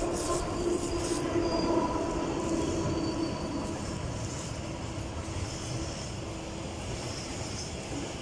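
Freight train hauled by an electric locomotive running past on the rails, with a steady whine that is loudest in the first two or three seconds and then fades as the train moves on.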